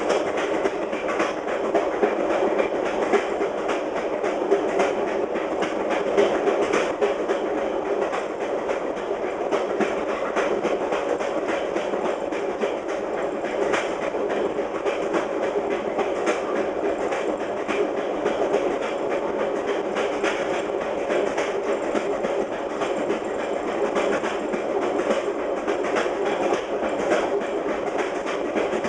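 Fast passenger train running on jointed rail, heard from the rear of the train: a steady rumble with continual clickety-clack as the wheels strike the rail joints.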